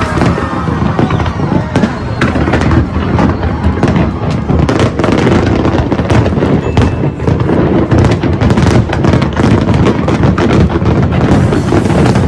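Fireworks going off in a continuous rapid barrage of bangs and crackling.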